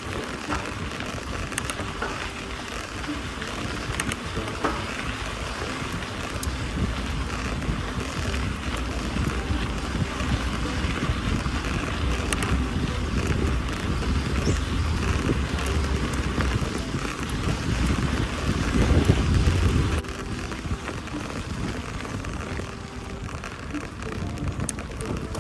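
Mountain bike rolling over a dirt fire track: steady tyre and drivetrain rattle with wind buffeting the microphone. The wind rumble builds from about six seconds in, is loudest just before twenty seconds, then drops suddenly.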